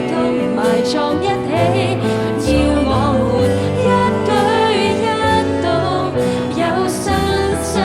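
Live band playing a Christian worship song, with a voice singing over sustained chords and a bass line that moves to a new note every second or two.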